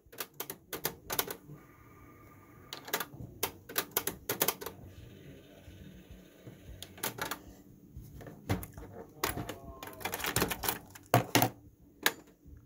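Irregular sharp clicks and clacks of a Sony MHC-1200 mini hi-fi being handled and its controls worked, a dozen or more in quick, uneven groups.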